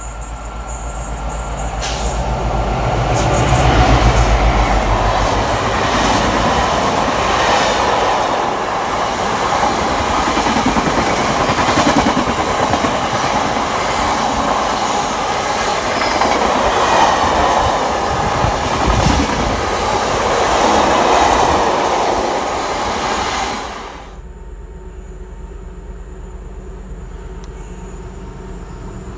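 Diesel freight locomotive passing at speed with a long train of bogie tank wagons. A deep rumble builds and peaks a few seconds in as the locomotive goes by, then comes a steady rush and rattle of wagon wheels on the rails for about twenty seconds. It drops off suddenly as the last wagon clears.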